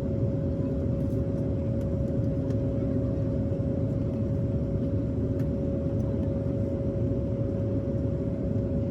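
Jet airliner cabin noise: the steady drone of the engines and airflow heard from inside the cabin, with a constant mid-pitched hum running through it.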